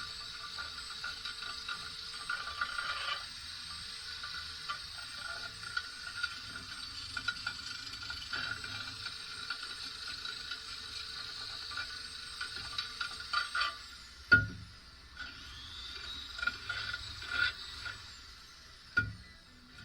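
Mechanical clicking and rattling of tools working on metal car parts, over a faint steady whine that stops about fourteen seconds in. A sharp loud knock follows shortly after, and another comes near the end.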